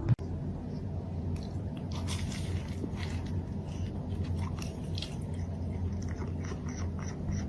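An animal crunching and chewing something crisp, with short crunches that settle into a steady run of about three or four a second in the second half.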